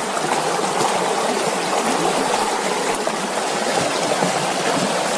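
Mountain trout stream running steadily, a continuous rush of flowing water.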